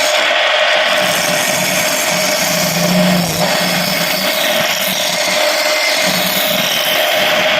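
Homemade wood lathe running steadily while a turning tool cuts into spinning surian wood, a continuous cutting hiss over the motor's steady hum.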